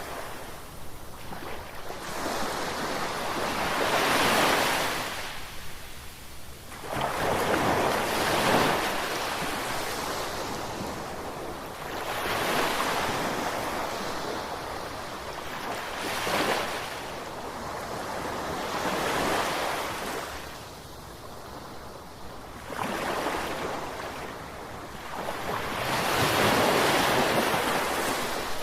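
Gentle ocean waves washing in, swelling and falling back in a surge about every four seconds over a steady wash of surf.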